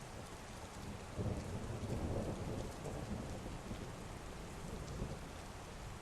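Heavy rain falling steadily, with a roll of thunder that rumbles in about a second in and fades out over the next few seconds.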